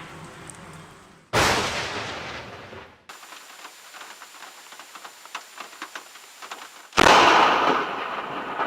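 Two close thunderclaps from nearby lightning strikes, one about a second in and another near the end, each starting with a sudden crack and fading away. Between them, a quieter patter of rain with small crackles.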